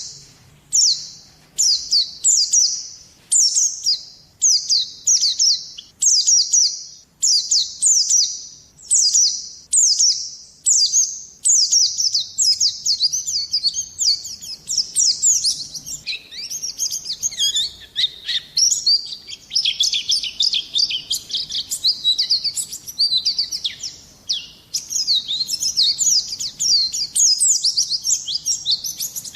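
White-eye (pleci) singing high twittering phrases, repeated about once a second at first, then running into a fast, continuous twittering song about halfway through.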